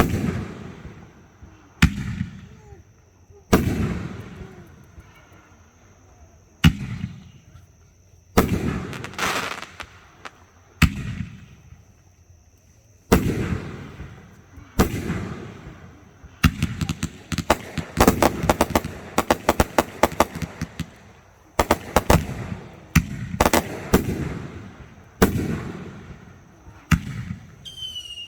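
Fireworks shells bursting one after another, each a sharp bang trailing off into a rolling echo. There are about a dozen bangs in all, and two stretches in the middle where quick strings of crackling reports follow close together.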